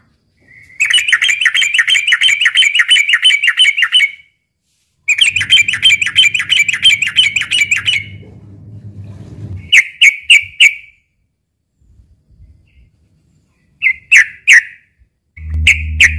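Sooty-headed bulbul (trucukan) calling loudly: two long runs of fast, rapidly repeated chattering notes, then short bursts of three or four clear notes. This is the excited fighting call of a male. A faint low hum is underneath in places.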